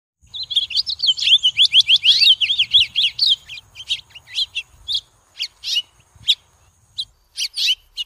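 Birds chirping: a dense run of quick, high, down-slurred chirps for the first three seconds or so, thinning to scattered calls. A faint steady high whine runs underneath until near the end.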